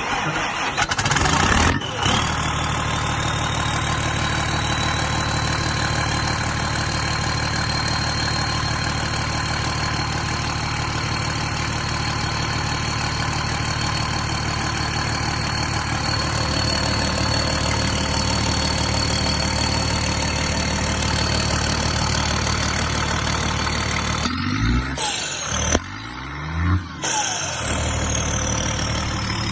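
Freshly overhauled Volvo D9 six-cylinder turbodiesel in a wheel loader starting: a rough second or two as it catches, then running steadily with a high whine over the engine note. Near the end the engine note dips and swings in pitch for a few seconds.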